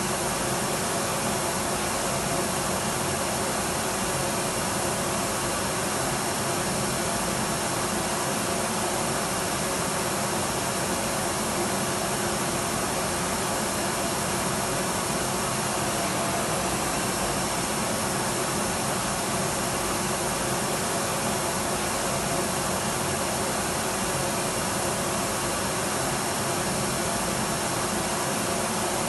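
Electric vacuum cleaner running at a steady, unchanging pitch: a constant rush of air over a low motor hum.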